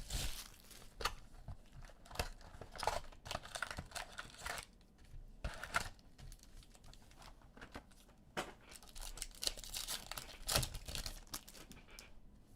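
Hands tearing open and crinkling the plastic wrap and packs of sports-card boxes: irregular ripping and rustling with small sharp crackles.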